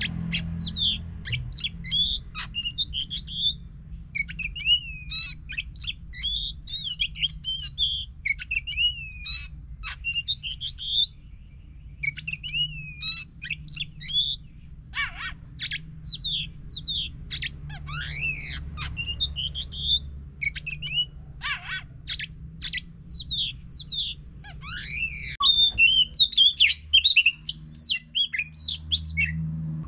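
Oriental magpie-robin (kacer) singing a varied song of short whistled phrases, sweeps and chirps. It grows louder and faster in the last few seconds. This is the kind of lively kacer song played as a lure to set a silent bird singing.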